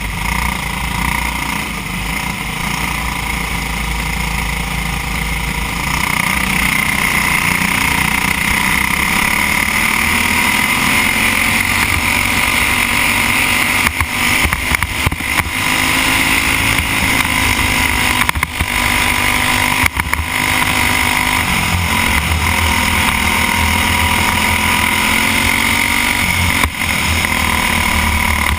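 Racing kart's Briggs & Stratton Animal single-cylinder four-stroke engine running under load, picking up strongly about six seconds in, then rising and falling in pitch as the throttle opens and closes. Heard from the driver's helmet, with wind rush over it.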